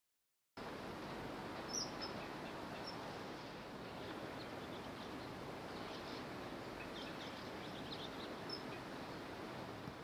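After half a second of dead silence, steady outdoor background noise, with a few short, high bird chirps: the clearest about two seconds in, then more around seven to eight seconds.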